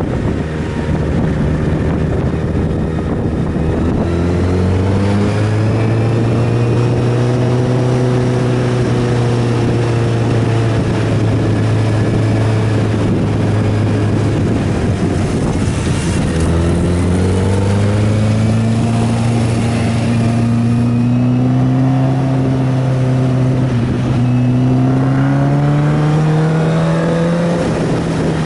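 Inline-four superbike engine heard from on board while riding, its note rising and falling with the revs: it climbs, drops sharply about halfway through, then climbs steadily again. Wind rushes over the microphone throughout.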